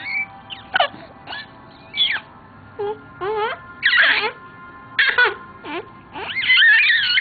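A baby of about four and a half months vocalizing: a string of short, high-pitched squeals and coos that glide up and down in pitch, the longest and loudest near the end. The parent takes these sounds for her imitating a train.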